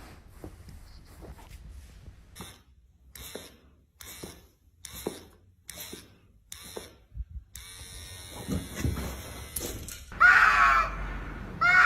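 Soft ticks, about one a second, for the first several seconds, then an animal's loud cry twice near the end.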